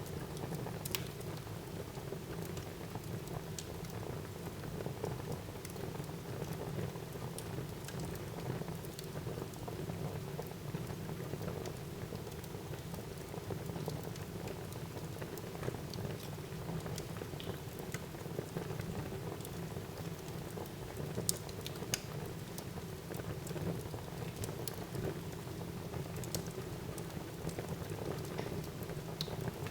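Wood fire burning in a fireplace: a steady low rush of flames with scattered crackles and pops from the burning logs, a few sharper pops about 21 to 22 seconds in.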